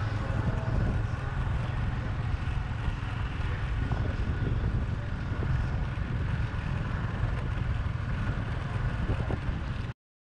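Steady rumble of a moving motorbike, with wind buffeting the microphone and road noise. It cuts off suddenly near the end.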